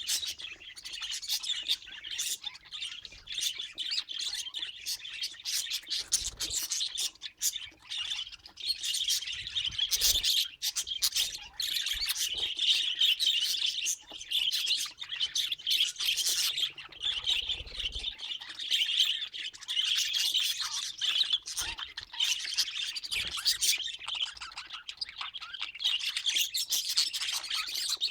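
Budgerigars chattering and warbling: a dense, nearly unbroken run of fast high chirps and clicks with occasional squawks.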